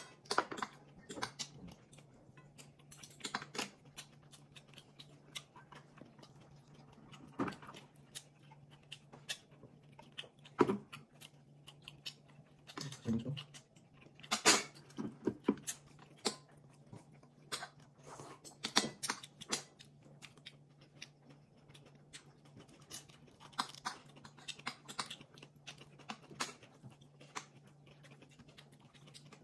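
Close-up chewing and mouth sounds of someone eating grilled meat and fish: irregular wet smacks and small crunching clicks, with a steady low hum underneath.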